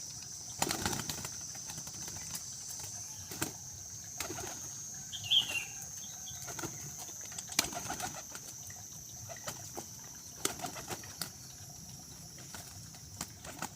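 Pigeons' wings flapping in short, irregular bursts, with a brief high chirp about five seconds in.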